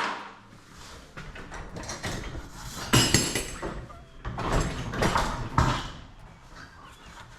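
Metal hardware and tools being handled, with a sharp metallic clank about three seconds in that rings briefly, and scraping and rattling around it.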